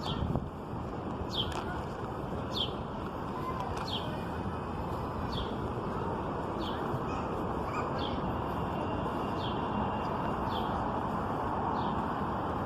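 A bird repeating a short, high, falling call about once every second and a quarter, over a steady outdoor background hum.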